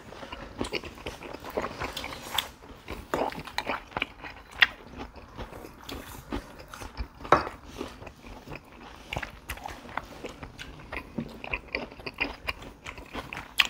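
Close-up eating sounds: chewing and biting food, with scattered small crunches and clicks.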